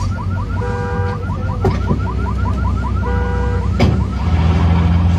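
Car alarm going off, cycling between rapid rising chirps, about five a second, and a steady two-tone blare, over a steady low hum. Two sharp knocks come through it.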